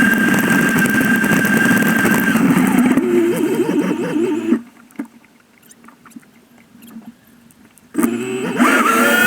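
Jet ski engine running steadily with a high, held whine. About four and a half seconds in the sound drops away abruptly, leaving a few seconds of quiet with scattered clicks. The engine sound returns sharply near the end with a wavering whine.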